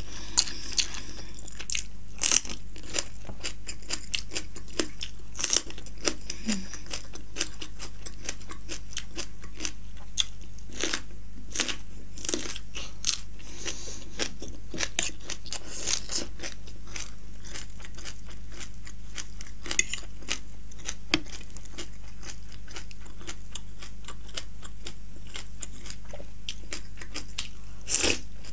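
Close-miked eating sounds of spicy Buldak ramen noodles: irregular wet chewing and lip-smacking clicks over a steady low hum. Near the end comes a louder crunchy bite into a panipuri shell.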